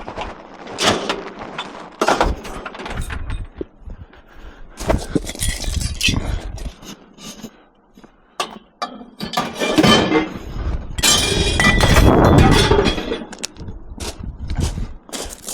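Scrap metal being handled and loaded onto a truck: a run of clanks and clinks with scraping, and a long rattling clatter near the end.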